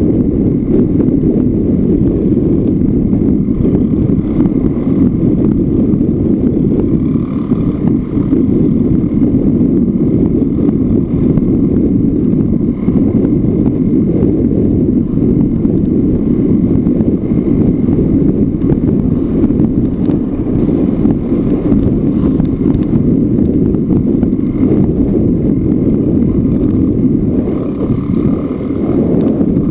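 Yamaha Lanza two-stroke single-cylinder trail bike running steadily under way, with wind rushing over the microphone.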